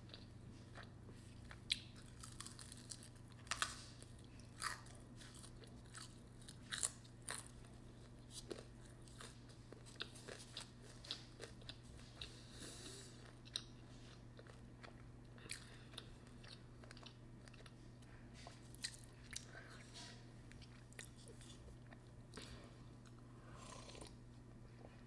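Close-miked mouth sounds of a person chewing spicy ramen noodles: irregular wet clicks and smacks, a few at a time, with a sip from a cup near the end, over a steady low hum.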